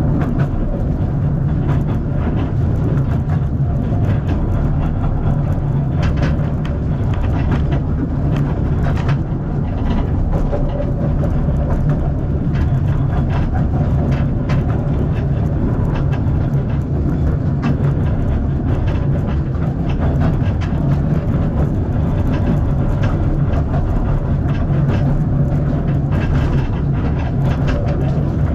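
Passenger carriage of a narrow-gauge steam tourist train running along the track: a steady low rumble with frequent clicks and knocks from the wheels and the carriage.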